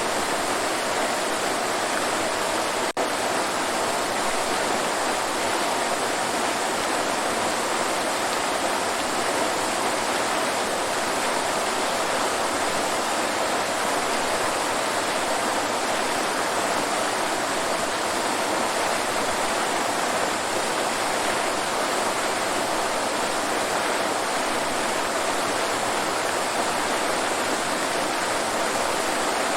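Waterfall rushing in a steady, unbroken hiss of falling water, with little deep rumble. A single brief click interrupts it about three seconds in.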